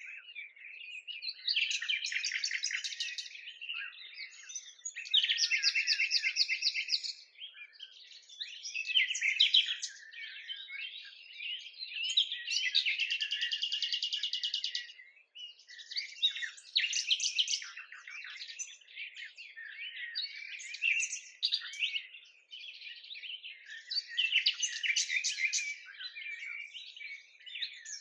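Songbirds singing: rapid chirps and trills in phrases of one to three seconds, one after another with short gaps.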